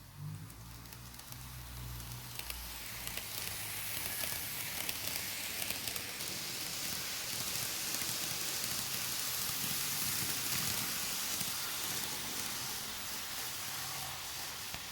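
N-gauge model train running on the layout's track: a steady hissing rattle of small wheels on the rails that grows louder over the first few seconds and then holds, with a low motor hum near the start.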